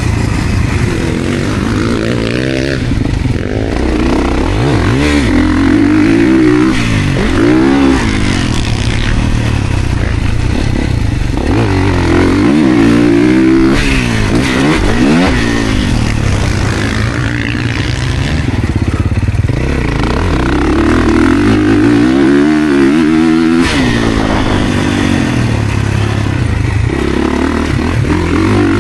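Dirt bike ridden hard around a motocross track. Its pitch rises and falls again and again as the rider accelerates and backs off, with clatter and rush over the top.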